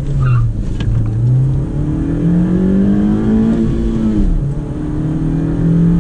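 Honda Civic G8's 1.8-litre four-cylinder engine, heard from inside the cabin, pulling hard under acceleration: its note climbs steadily in pitch, then drops abruptly about four seconds in at a manual upshift and carries on steady in the next gear.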